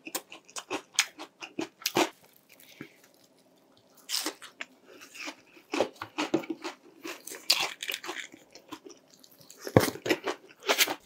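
Close-up chewing of a crispy breaded chicken cutlet dipped in sauce: irregular crunches of the fried coating, with the loudest crunches a little before the end.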